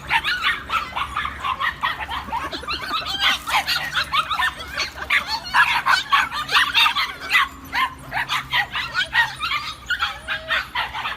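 Dogs yipping and barking in a rapid, continuous stream of short high calls that overlap one another.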